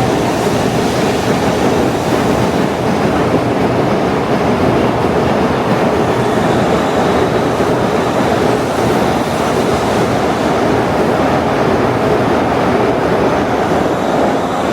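Shinkansen train moving along the platform: a loud, steady rush of wheel and running noise.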